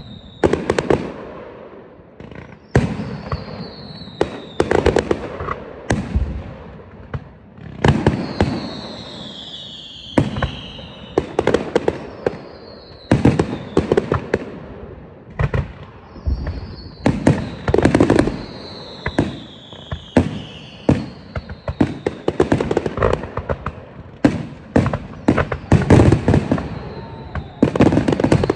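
Fireworks display: aerial shells bursting one after another, with loud booms every couple of seconds and quicker cracks and pops between them. Thin whistles falling in pitch recur through the barrage.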